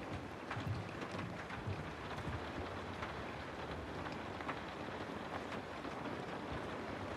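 Steady rain falling on a house, a dense patter with scattered sharper drop ticks and occasional low thuds.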